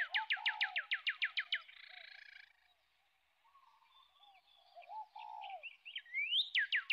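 Birds calling: a rising whistle followed by a fast run of falling notes, about eight a second, at the start and again near the end, with softer low cooing notes in between.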